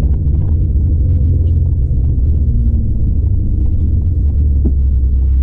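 Stage 2-tuned Audi TT RS's turbocharged 2.5-litre five-cylinder engine running at low revs with a steady deep drone as the car coasts down to a crawl, heard from inside the cabin.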